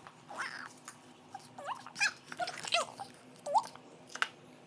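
A dog whimpering: several short, high whines that bend up and down in pitch.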